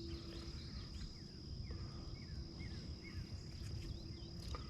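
Summer morning outdoor ambience: a steady high-pitched insect drone with many short, scattered bird chirps, over a low rumble.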